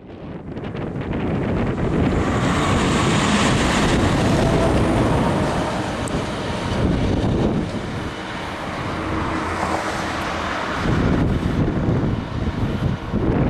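A train passing close by: a loud, steady rush of running noise that builds over the first two seconds and keeps going with small swells.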